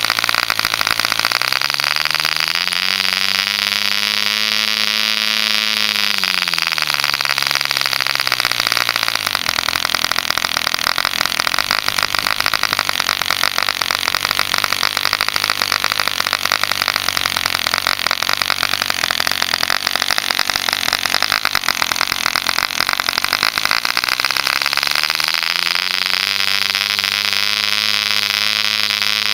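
A Mills 0.75 cc model diesel engine with a homemade contra-piston, running with a high buzzing note. Its speed climbs to about double within the first few seconds and drops back, then goes rough with no steady pitch for a long stretch, and climbs to high speed again near the end.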